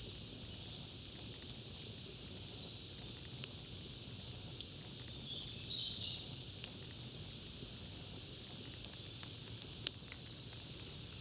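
Campfire crackling: irregular small pops and snaps over a steady hiss, with one sharper, louder pop near the end.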